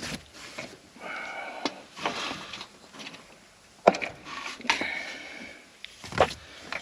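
Hand work on the engine: scattered clinks and knocks from tools and parts, with scraping and brief squeaks in between.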